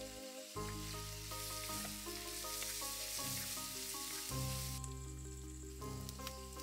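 Sliced onions and green chilies sizzling as they fry in hot oil in a clay pot, stirred with a wooden spoon. The hiss is loudest through the middle and eases a little near the end.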